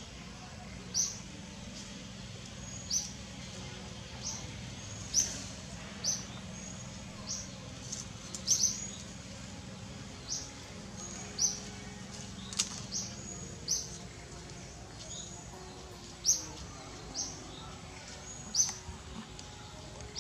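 A small bird calling over and over, short high chirps every second or so, over a steady low background hum.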